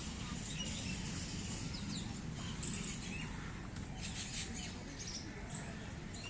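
Small birds chirping in short calls over a steady background murmur, with two brief sharp sounds, one near the middle and one near the end.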